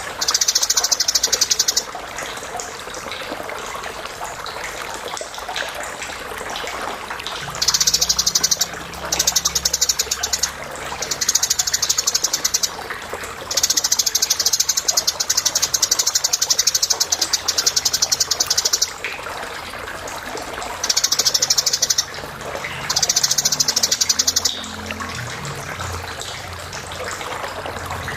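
Eurasian tree sparrow chirping in fast, rapid-fire bursts lasting from one to several seconds, separated by short pauses, over a steady background hiss.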